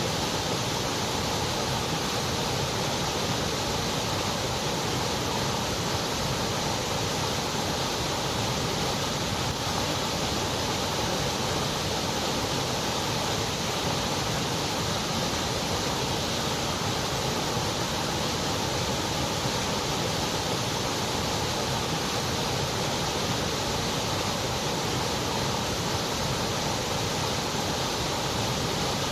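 Continuous white noise: a steady, even hiss that does not change, with its sound thinning out above the highest treble.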